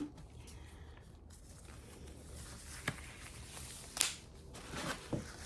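Faint handling noises from work on a drawer: a few light clicks, the sharpest about four seconds in, and small rustles over a low steady hum.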